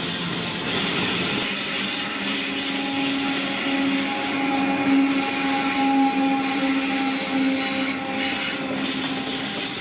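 Train running past on the line: a steady rumble and hiss of rolling wagons, with a held whine from about two seconds in until near the end.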